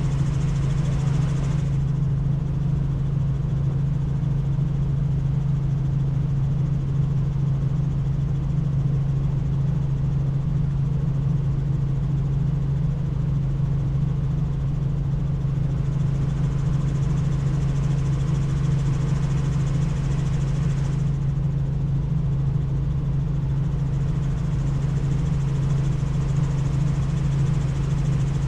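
Helicopter in flight heard from the open cabin: a steady drone of rotor and engine with a strong constant low hum, and a wind rush on top that grows and fades a few times.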